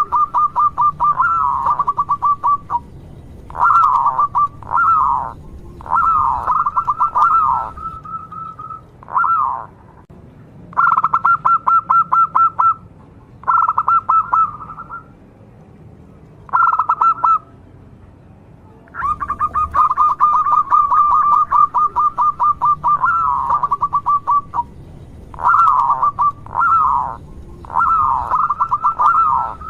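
Zebra dove (perkutut) cooing: a local bird sings its song over and over. Each phrase is a fast run of staccato coos ending in short curved notes, with brief pauses between phrases.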